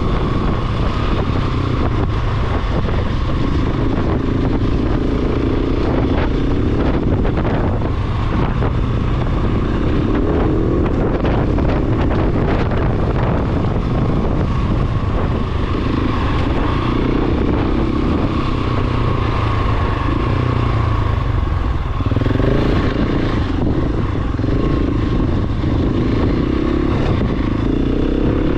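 Large single-cylinder four-stroke dual-sport motorcycle riding along a dirt trail, the engine rising and falling in revs as the rider works the throttle, with wind rushing over the microphone.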